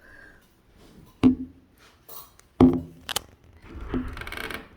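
A few sharp knocks and clicks, then a brief scraping rattle near the end, from handling things at a bathroom window.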